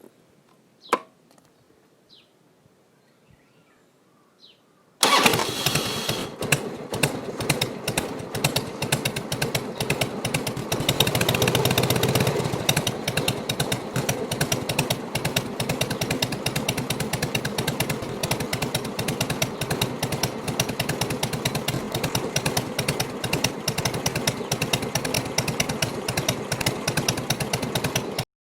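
Harley-Davidson V-twin motorcycle engine with a North American-spec muffler, catching about five seconds in and then idling with an uneven, loping pulse, the 'three-beat' (sanbyoshi) idle. It runs a little louder for a couple of seconds near the middle. A single click comes about a second in, before the start.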